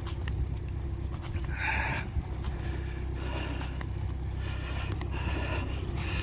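Steady low rumble from a motor or distant road traffic, with a faint constant hum.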